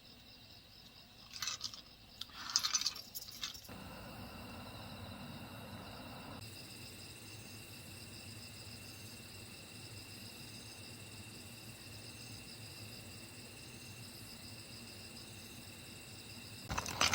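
Steady chorus of crickets and other insects, with a few seconds of light metallic clinking between about one and four seconds in.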